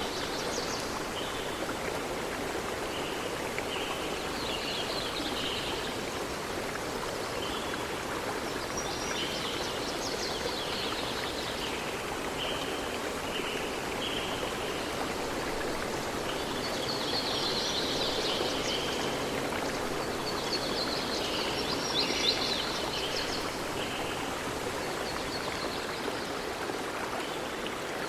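A steady rush of flowing stream water, with songbirds singing short high phrases on and off over it.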